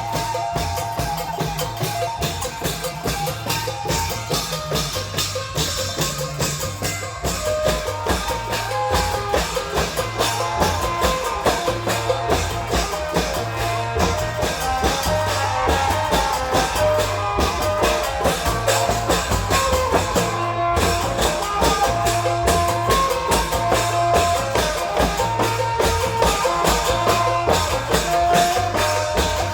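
Isan klong yao long-drum band playing: a steady, rhythmic beat of drums and percussion under a melody of held, pitched notes.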